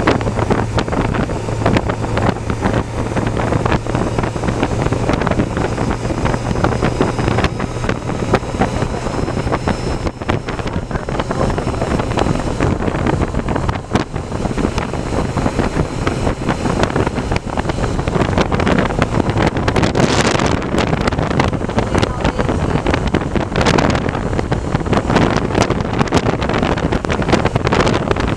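Motorcycle on the move: heavy wind rushing over the microphone on top of a steady engine drone.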